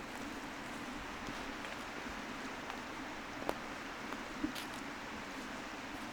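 Steady outdoor rushing noise of a windy hillside walk, with two faint footstep clicks about a second apart midway through.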